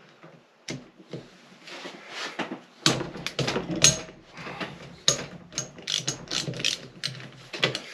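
Hand socket ratchet clicking in quick runs as it is worked back and forth on engine bolts, with metal tool rattling; a few isolated clicks first, then steady ratcheting from about three seconds in.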